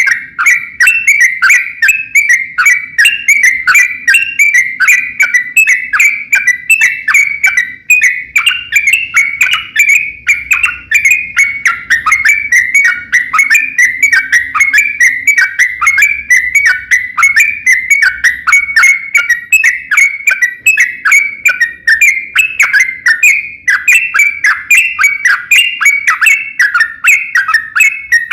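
Yellow-vented bulbul (trucuk) singing a long, unbroken run of rapid chirping notes, about five a second.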